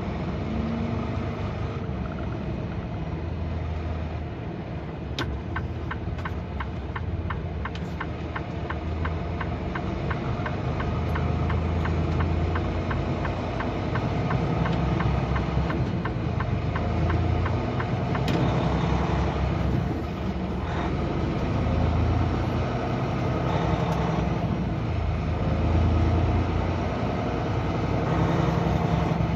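Semi truck's diesel engine running as the truck pulls away and gets under way, a low rumble that swells and eases. A run of evenly spaced ticks sounds for several seconds in the first half.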